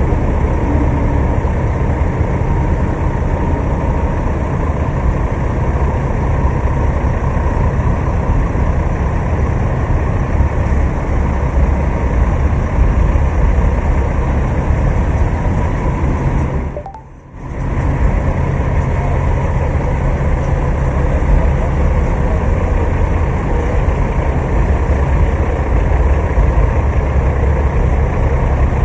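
Heavy truck engine idling steadily, a continuous low-pitched sound that drops away briefly about seventeen seconds in and then returns.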